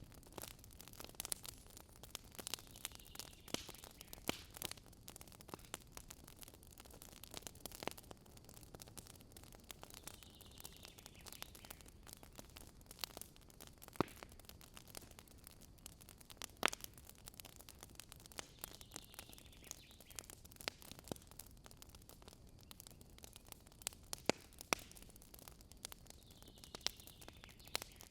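Wood campfire crackling, with irregular sharp pops and snaps, a few louder than the rest. Faint bird calls recur about every eight seconds.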